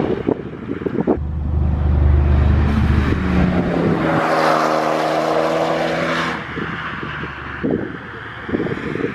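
Car engine with a loud aftermarket exhaust under hard acceleration: a deep drone that steps up to a higher, steady engine note, then drops away about six seconds in. Wind buffets the microphone with a few knocks.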